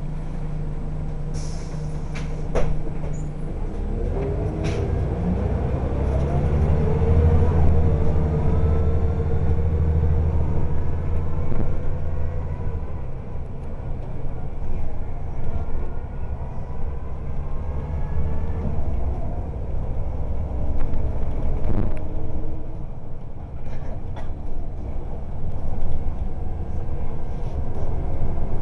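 Scania L94UB single-deck bus with a ZF four-speed automatic gearbox pulling away and accelerating. Its engine and transmission whine rise in pitch through the gears, with a few sharp clicks near the start.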